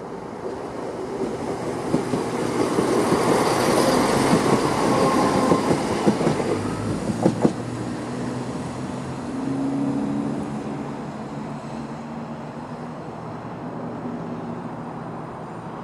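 British Rail Class 170 Turbostar diesel multiple unit running through the station without stopping: a swelling rush of engine and wheel noise, loudest about four to seven seconds in, with a few sharp wheel clicks over rail joints near the peak, then fading to a low steady rumble as it draws away.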